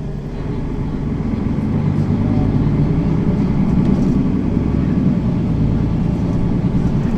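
Mercedes-Benz Citaro city bus running on the road, heard from inside the cabin: a steady engine and drive drone that grows louder about two seconds in as the engine pulls harder.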